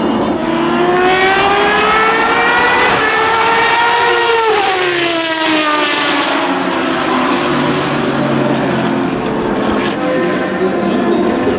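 Dallara SP1's Judd V10 racing engine at full throttle on a fast pass. The engine note climbs as the car approaches, drops sharply as it goes by about four and a half seconds in, and sinks lower as it moves away. A rising engine note returns near the end.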